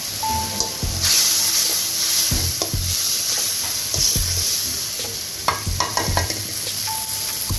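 Onion and spice masala sizzling in hot oil in a pan as it is sautéed, with a spatula stirring and scraping through it. A quick run of spatula knocks against the pan comes a little past the middle.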